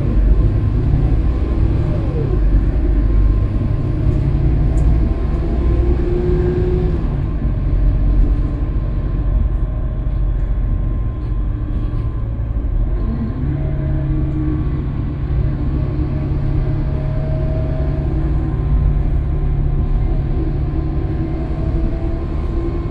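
Scania K320UB city bus running under way, a steady low rumble with whining drivetrain tones that slowly shift in pitch.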